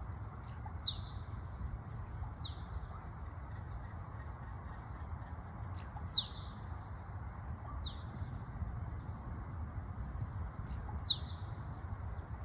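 A bird calling with short, high notes that swoop downward. They mostly come in pairs about a second and a half apart, the first louder, and the pairs repeat every five seconds or so. A steady low rush of background noise runs underneath.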